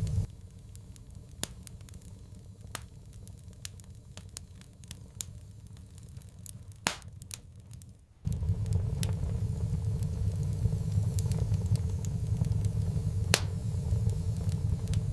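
Wood fire crackling, with scattered sharp pops and snaps. Underneath, a low rumble stops just after the start and comes back abruptly about eight seconds in.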